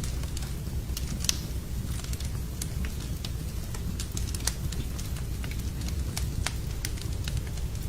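Wood fire burning in a fireplace, crackling with irregular sharp pops over a steady low rumble. The loudest pop comes about a second in.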